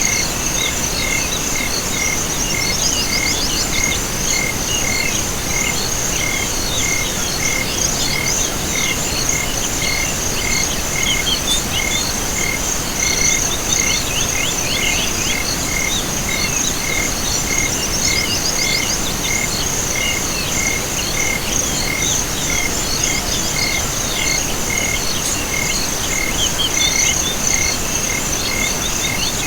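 Night chorus of insects and frogs: a continuous high cricket trill and a chirp repeating about twice a second, with short runs of frog calls coming and going.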